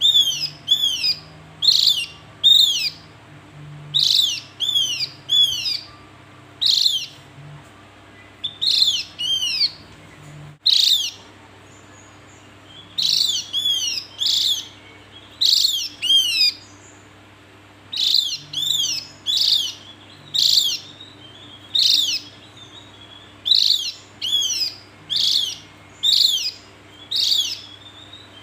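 Javan grey-throated white-eye (opior Jawa) calling: sharp, high, downward-sweeping chirps in quick clusters of two to four, repeated about once a second with a few brief pauses.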